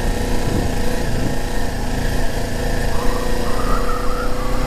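Motorcycle engine running steadily while being ridden at low speed, with a slight change in its tone about three seconds in.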